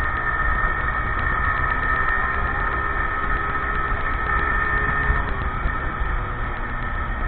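Motorcycle engine running steadily under a low rumble, with a steady high whine over it.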